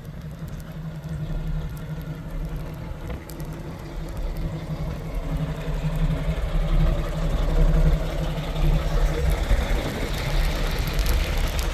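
A vehicle engine running steadily with a low hum, growing gradually louder, with a hiss building up over the second half.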